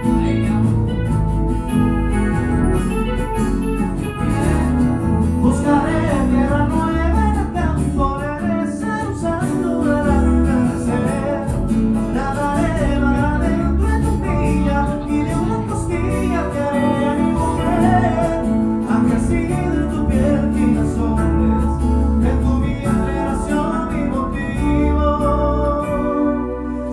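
Band playing a song, with a strong bass line under a lead melody that bends and wavers in pitch.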